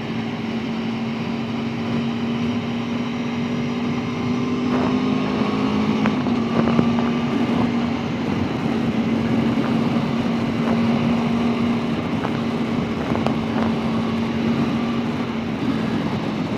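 Aprilia Tuono V4 1100 engine running at a steady cruise, its pitch holding nearly level with a slight rise about five to six seconds in, over wind rush on the microphone.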